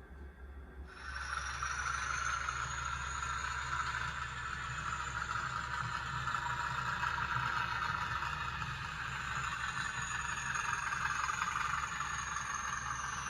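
Sound-fitted OO gauge model locomotive running, its decoder's engine sound from an on-board speaker coming in suddenly about a second in and running steadily, with a faint high whine.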